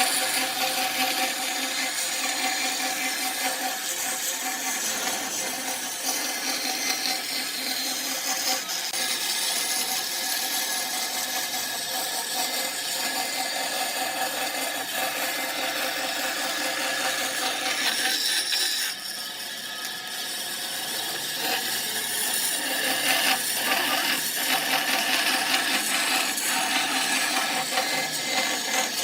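Wood lathe running with a turning tool cutting into the spinning wood: a steady motor hum under a rough, hissing scrape of the cut. The cutting eases off briefly about two-thirds of the way through, then builds again.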